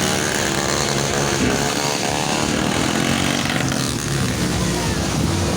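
Motocross dirt bike engine revving hard, its pitch rising and falling.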